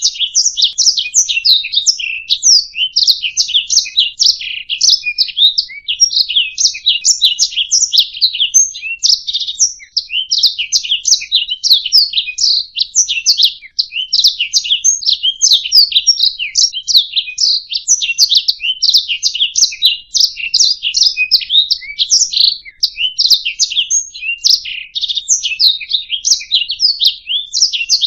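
Domestic canary singing a long, unbroken song of rapid high chirps and trills.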